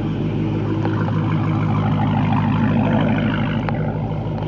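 Dodge Hellcat's supercharged V8 idling steadily, swelling a little louder midway.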